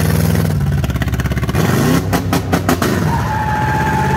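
2000 Lincoln Continental's 32-valve V8 with open exhaust under hard acceleration, revs climbing about a second and a half in and breaking up roughly around two seconds in. A steady high tone joins near the end.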